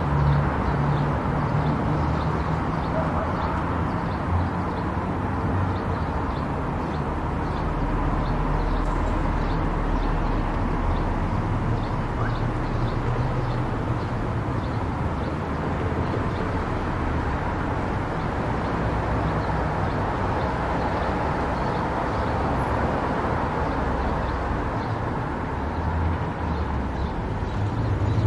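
Car driving along a road: steady engine hum and tyre noise, the engine note shifting slowly up and down with speed.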